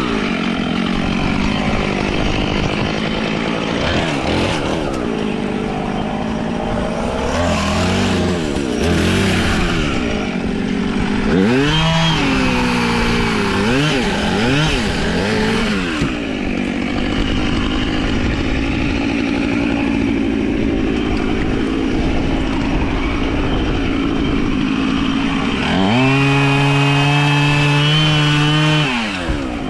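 Chainsaw engine running, revved up and down over and over, then held at high speed for about three seconds near the end before dropping back.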